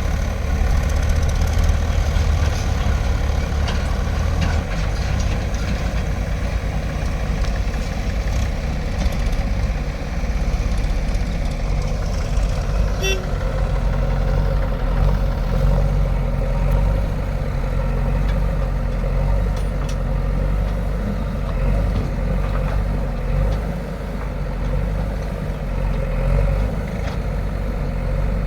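Heavy diesel engine of earth-moving machinery running steadily under work, with a low, even drone throughout.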